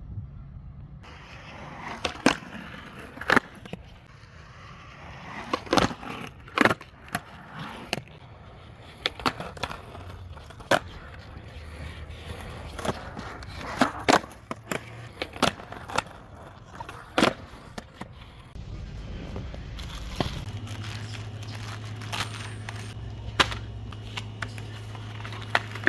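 Scattered sharp knocks and clicks at irregular intervals, with a low steady hum coming in about twenty seconds in.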